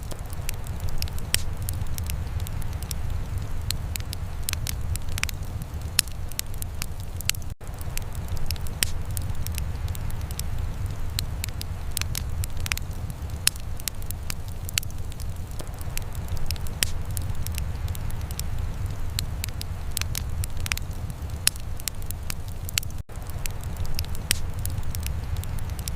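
Wood fire crackling in a fireplace: irregular sharp pops and snaps over a steady low rumble of the flames. The sound cuts out for an instant twice.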